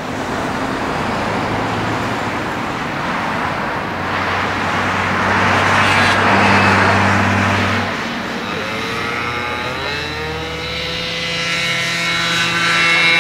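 Boeing 747-400 jet engines passing close by: a loud roar that builds to a peak about halfway through, then a whine of several high tones that rise briefly in pitch and hold steady through the second half.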